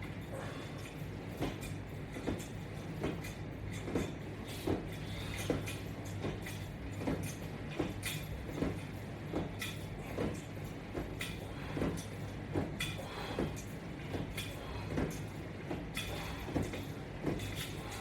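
A person doing core exercise repetitions with resistance straps: soft rhythmic thumps about every 0.8 s over a steady low hum.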